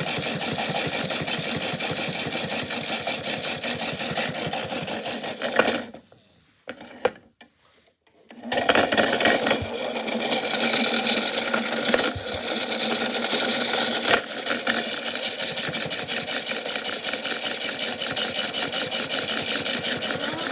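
Washing machine running with a big rock inside, giving a fast, steady mechanical rattling. It drops out almost to silence for about two seconds some six seconds in, then picks up again.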